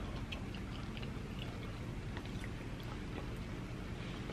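Faint chewing of rotisserie chicken dipped in cheese sauce: scattered small mouth clicks and smacks over a low steady hum.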